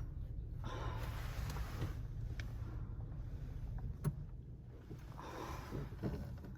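Steady low mechanical hum from a 1995 Honda Civic, with a single sharp click about four seconds in.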